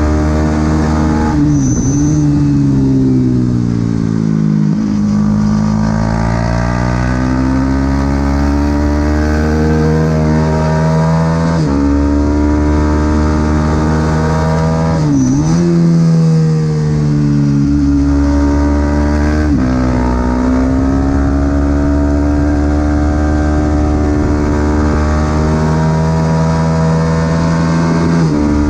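Supersport 300 racing motorcycle engine at full throttle, its pitch climbing steadily and then dropping sharply at each gear change, several times over. Twice the pitch dips briefly and jumps straight back up.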